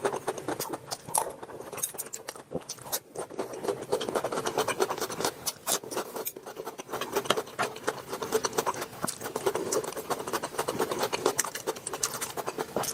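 Spatula scraping and stirring in a frying pan as curry paste is stir-fried, with dense, irregular scratching throughout.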